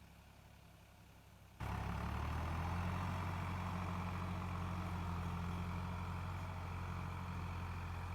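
Sonalika DI 35 tractor's diesel engine running steadily. It is faint at first, then about a second and a half in it abruptly becomes much louder and stays at that level.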